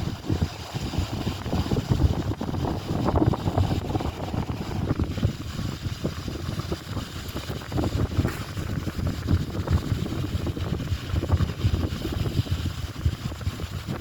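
Strong wind buffeting a phone's microphone: an irregular, gusting rumble that rises and falls throughout.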